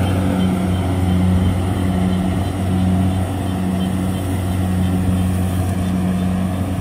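Kubota DC70 combine harvester's diesel engine running steadily with a constant low drone.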